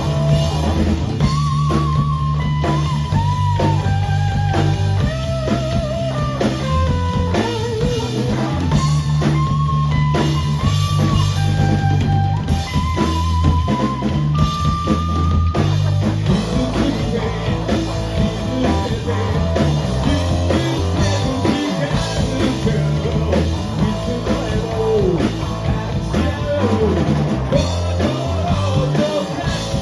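Live rock band playing: loud electric guitar with a wavering lead line, bass and drum kit.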